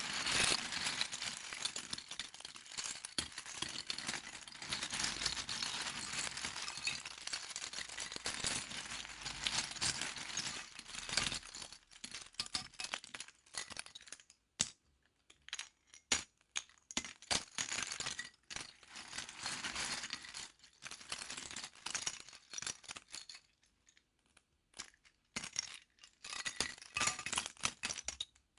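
Loose plastic LEGO pieces clattering together as they are rummaged or poured, dense and continuous at first. After about twelve seconds it breaks into scattered separate clicks, with a short flurry again near the end.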